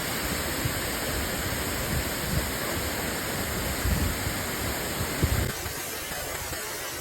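Waterfall rushing: a steady hiss of falling water, with low bumps and rumble on the microphone that drop away about five and a half seconds in.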